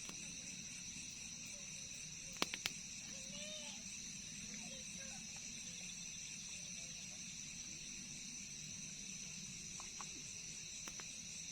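Steady night chorus of crickets and other insects, a continuous high trill. Two or three sharp clicks come about two and a half seconds in.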